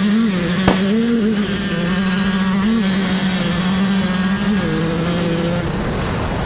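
Two-stroke dirt bike engine running hard at high revs with a steady note and a few brief rises in pitch, settling slightly lower near the end before cutting out. A single sharp click sounds just under a second in.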